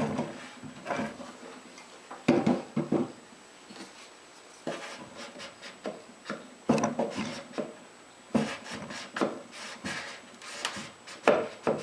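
A clothes iron and a wooden 2x4 block rubbing and knocking along a panel edge as iron-on edge banding is heated and pressed down: irregular spells of rubbing with short wooden knocks.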